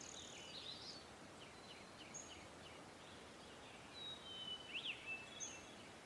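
Faint outdoor ambience of small birds: scattered short high chirps and thin whistles over a soft hiss, with a slightly louder run of whistled notes, including a falling whistle and a quick up-and-down chirp, about four to five seconds in.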